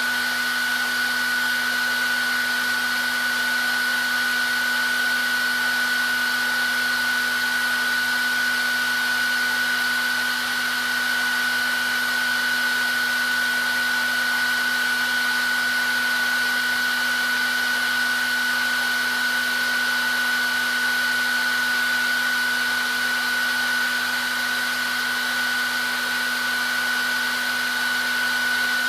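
Hair dryer running steadily on one setting: a constant rush of air with a high steady whine from the motor and fan and a low hum beneath.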